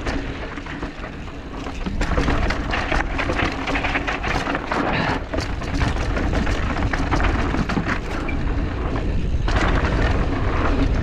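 Mountain bike riding over a rocky trail: steady wind rush on the microphone, with many clicks and rattles from the tyres and bike on the rocks, getting louder about two seconds in.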